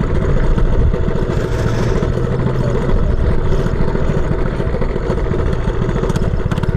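Mini bike engine running steadily at idle with a rapid, even putter.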